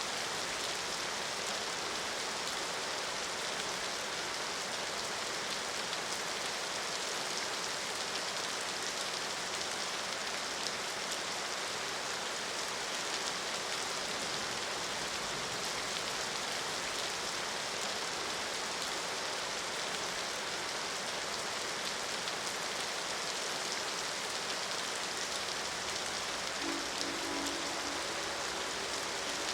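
Steady rain falling, an even hiss of many drops with no let-up. A faint short low tone sounds briefly near the end.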